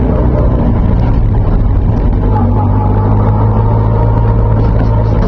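Alfa Romeo Alfasud Sprint Group 2 race car's flat-four boxer engine running at low revs, heard from inside the cabin as the car moves at walking pace: a steady low drone that grows stronger and steadier about two seconds in.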